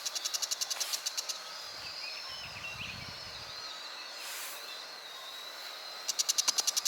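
A bird's rapid chattering call, an even run of high notes about ten a second, breaking off about a second in and starting again near the end. In between, faint thin wavering notes.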